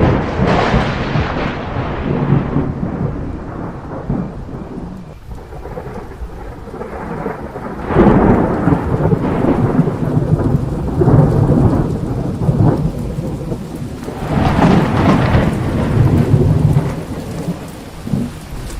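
Thunderstorm: steady rain with rolling thunder. Three big rumbles swell up sharply, one near the start, one about eight seconds in and one about fourteen seconds in, each dying away over a few seconds.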